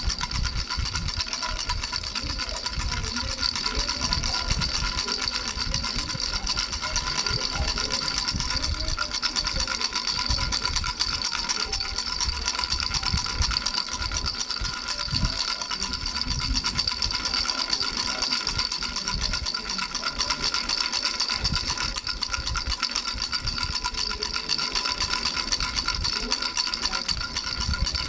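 Baby rattle with three bells shaken continuously: a steady jingle of ringing bell tones, with irregular dull knocks from the handling underneath.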